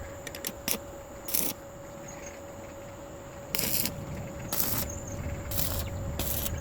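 Metal clinks followed by short metallic scraping strokes, about one a second in the second half, over a steady faint hum.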